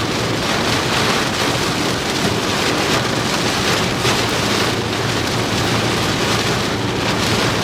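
Heavy rain beating on a moving vehicle, heard from inside the cabin as a steady, dense hiss.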